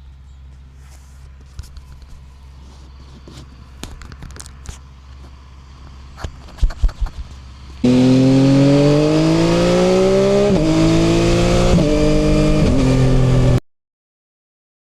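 Motorcycle engine ticking over low with scattered clicks and a few loud knocks, then a loud full-throttle run, the pitch climbing and dropping back at three upshifts before it cuts off suddenly.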